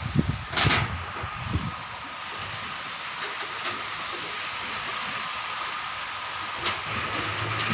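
Heavy storm rain pouring steadily. A few short, loud gusts of noise come in the first couple of seconds.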